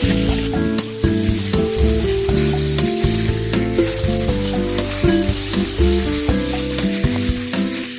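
Background music with a melody of short notes, over a steady sizzle of curry frying in a pan.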